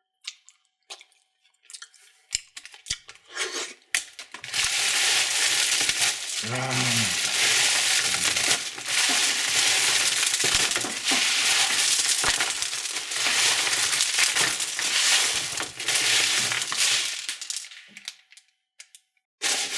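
Plastic candy wrapping being crinkled and torn open: a few scattered clicks and rustles, then about twelve seconds of dense, continuous crackling that dies away near the end.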